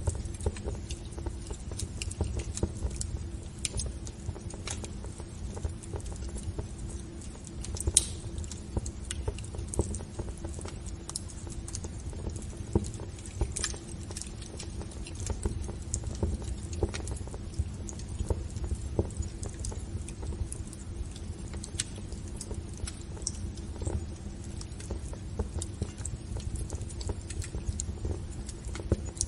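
Wood fire burning in a fireplace: irregular sharp crackles and pops over a steady low rumble, with one louder pop about eight seconds in.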